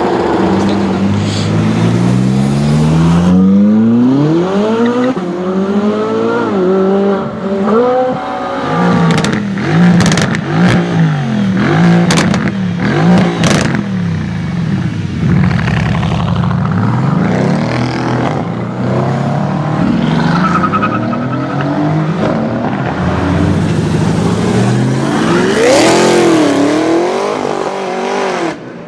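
A high-performance car engine revving and accelerating, its pitch climbing and falling again and again, with a few sharp cracks partway through.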